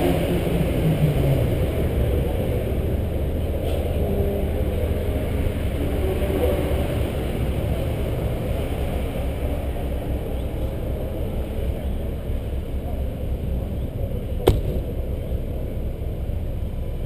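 Renault Clio RS's four-cylinder engine idling steadily, heard from its bonnet, with a single sharp click late on.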